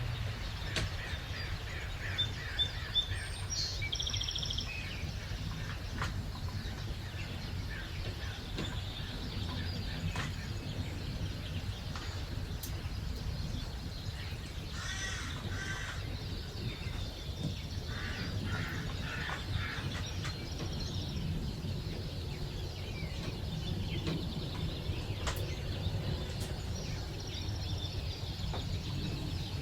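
Songbirds chirping and calling: scattered short chirps and a few brief trills from several birds, over a steady low background rumble.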